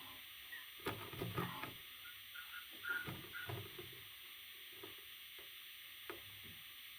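Faint rustling and scratching with scattered soft clicks and a few brief high peeps, over a steady hiss: parrot chicks shifting about.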